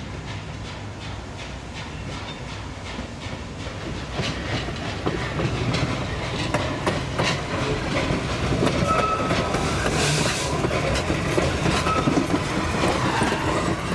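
Train rolling slowly on the track, its wheels clacking over the rail joints and growing louder from about four seconds in, with a short hiss about ten seconds in and brief faint squeals.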